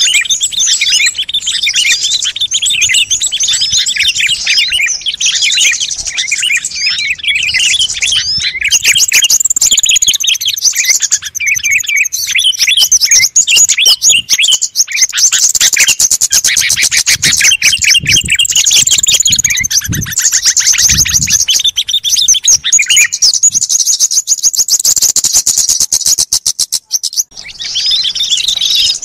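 Dense, noisy chorus of many small songbirds chirping, whistling and trilling over one another, a bird-lure recording meant to draw small wild birds in. Fast ticking trills run through the middle, and there is a brief break about 27 seconds in.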